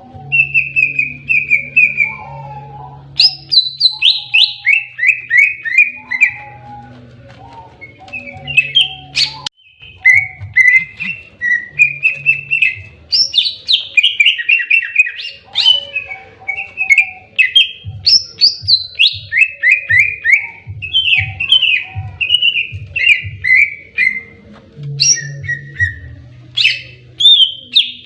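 Cucak ijo (green leafbird) singing its aggressive 'fighting' song: rapid runs of short, sharp, downward-sliding whistled notes, repeated in series with brief pauses.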